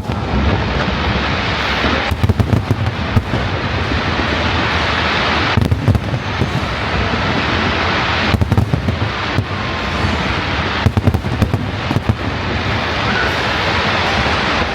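Fireworks display going off: a continuous rumble of shell bursts, with clusters of sharp crackling bangs every few seconds.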